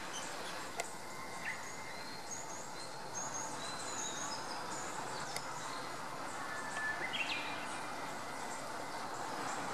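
Japanese bush warbler singing: a short clear whistle near the start, then a quick rising flourish and a held whistle about seven seconds in. Many short high bird chirps run throughout over a steady background hiss.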